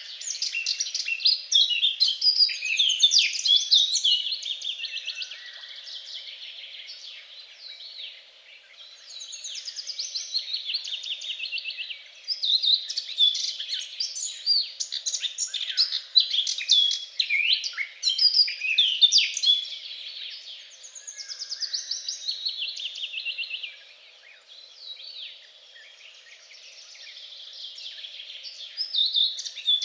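Several songbirds singing at once: overlapping rapid trills, chirps and whistled notes in phrases of a few seconds, swelling and fading in loudness.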